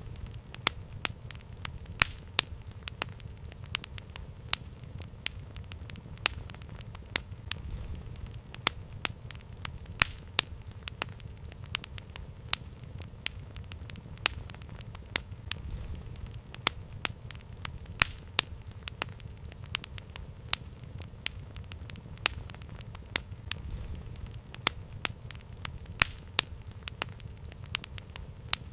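Campfire burning: irregular sharp crackles and pops, several a second, over a low steady rumble of the flames.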